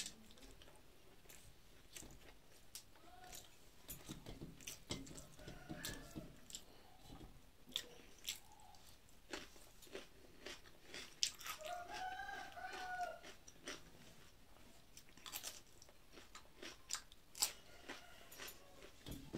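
Close-up eating sounds: chewing, with small wet smacks and crisp crunches, as rice and fried bitter gourd with pointed gourd are eaten by hand. About twelve seconds in, a chicken gives a brief clucking call.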